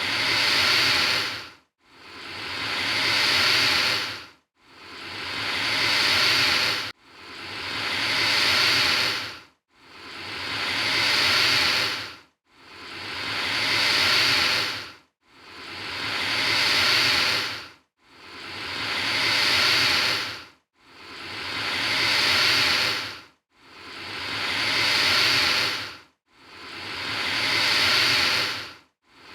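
Alligator hissing: one breathy hiss after another, about every two and a half to three seconds, each swelling up and then cutting off abruptly. The hisses look alike, as if a single hiss is repeated.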